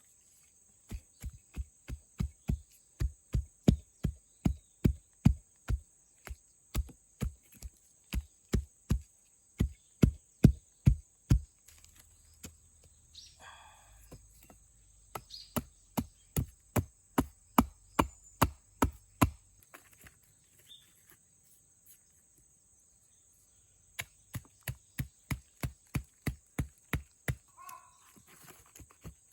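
Rhythmic chopping blows on wood, about two strikes a second, in three runs with pauses between. A steady high cricket or insect buzz runs underneath.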